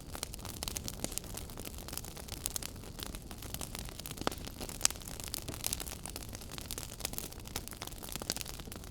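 Wood fire crackling in a fireplace: a steady hiss broken by frequent irregular snaps and pops, with one sharper pop about halfway through.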